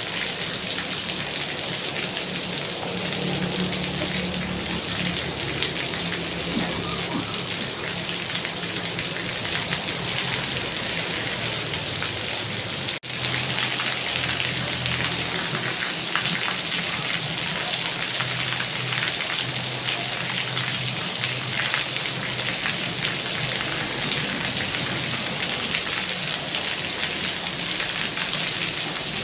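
Heavy rain falling steadily, an even hiss of drops with a momentary break about halfway through.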